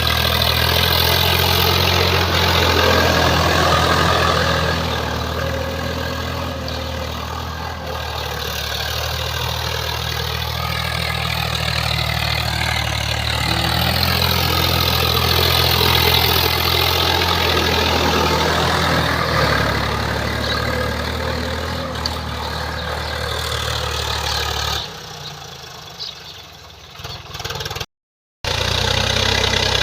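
Swaraj 855 tractor's three-cylinder diesel engine running steadily under load. About 25 s in the engine sound drops away, and near the end there is a brief dropout before it comes back.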